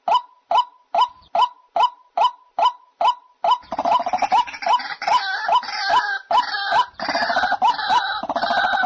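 White-breasted waterhen calling: a steady series of short, single pitched notes, a little over two a second. From about three and a half seconds in, a louder, harsher croaking chatter runs over them until near the end.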